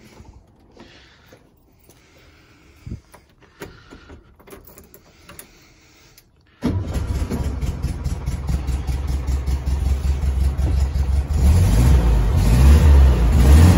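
1969 VW Beetle's air-cooled flat-four engine cold-started after sitting for a couple of weeks. First come a few light clicks and knocks; then about six and a half seconds in the engine catches at once and keeps running, revved louder near the end.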